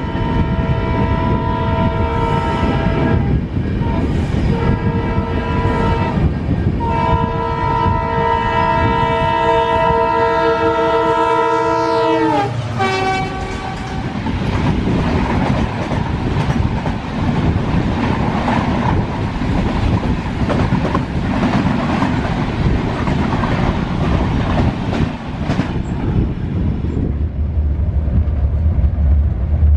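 A diesel locomotive's multi-tone horn blows in long blasts over the running noise of the train, with two short breaks. About twelve seconds in it ends with a sharp drop in pitch. After that come the rumble and clatter of the coaches running on the track.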